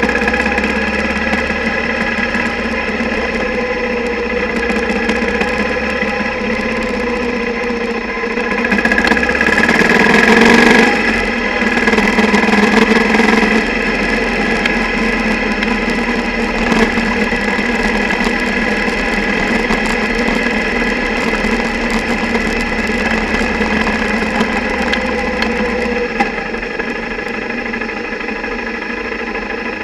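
Single-cylinder motorcycle engine running, heard mostly as vibration carried through the mount rather than through the air, with the camera's underwater housing rattling from the engine's vibration. It swells louder for a few seconds about nine seconds in.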